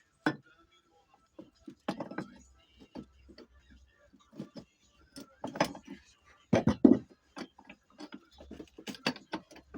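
Irregular metallic knocks and clinks of engine parts and hand tools being handled and fitted during assembly of a PD-23 starting engine, with several louder knocks around the middle.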